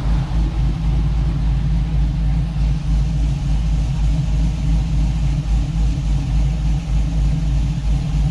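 Cammed LS V8 in a 1985 Chevy K10, breathing through headers and Flowmaster dual exhaust, running steadily with a low exhaust note that pulses unevenly.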